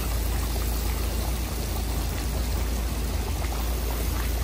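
Julienned yellow carrots frying in oil in a giant kazan for Uzbek plov, a steady sizzle and bubble over a low rumble.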